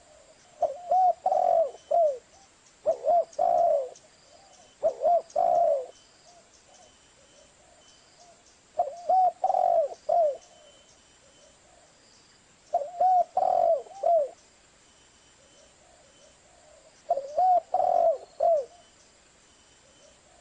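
Zebra dove (perkutut) singing: six phrases of quick, low coos, each a run of short rising-and-falling notes lasting about a second. The first three phrases come about two seconds apart, the later ones about four seconds apart.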